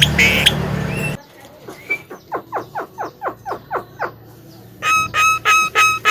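Javan myna calling: a fast run of short downward-sliding notes, about six a second, then loud, evenly repeated ringing notes, about three a second. In the first second, loud street noise cuts off suddenly.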